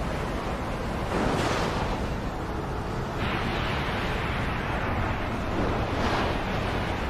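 Racing trucks' engines and tyres at speed, a steady rushing noise with two louder swells, about a second in and near the end, as trucks pass close by.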